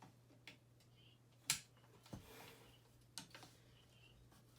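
A few short, sharp clicks of side cutters snipping zip ties, the loudest about a second and a half in, over a faint steady hum.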